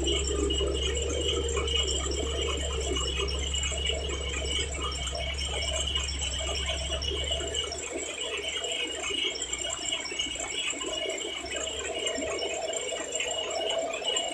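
Heavy truck's diesel engine rumbling low on the climb, then dropping away sharply about halfway through, under continuous metallic rattling.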